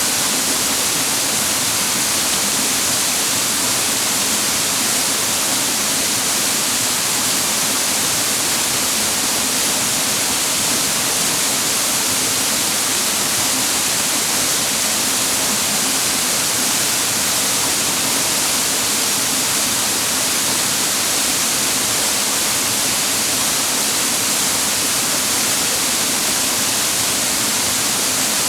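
Clear mountain water falling and rushing over rocks, a steady loud rush with no break.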